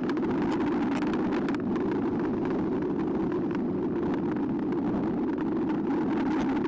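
Steady riding noise from an eBike on the move, the rush of wind and tyres picked up by a bike-mounted camera, with scattered light clicks and rattles.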